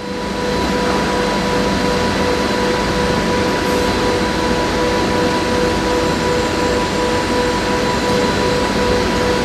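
A steady machine drone: even noise with a constant hum that starts abruptly and holds without change.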